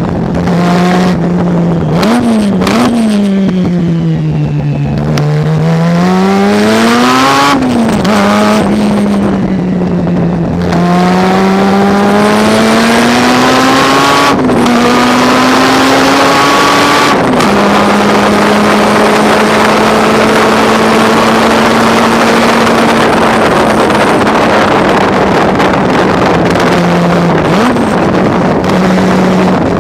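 Mazda RX-7 rotary engine at race pace, its pitch climbing and falling with throttle and gear changes: two sharp drops at upshifts in the middle, a long steady stretch, then a quick blip near the end. A heavy rush of wind and road noise runs under it.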